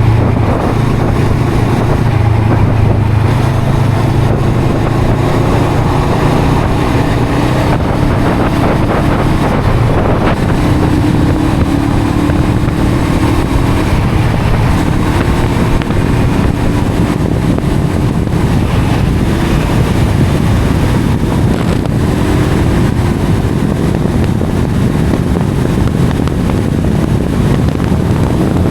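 Honda CL500's parallel-twin engine and exhaust running while the bike is ridden, under heavy wind noise on the microphone. The low engine hum is strongest for the first several seconds, then eases and shifts in pitch.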